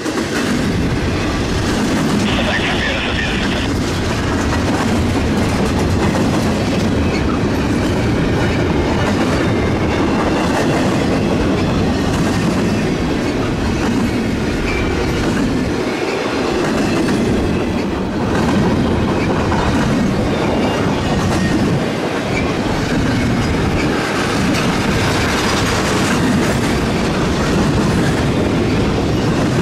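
Freight train cars rolling past, their steel wheels clattering on the rails in a steady, loud rush.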